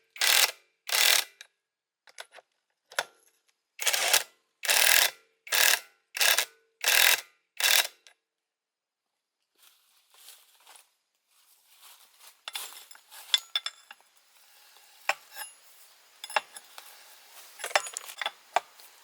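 Repeated short strokes of a hand tool working metal, about one every 0.7 seconds, stopping about eight seconds in. After a short pause come scattered light clicks and clatter of parts being handled.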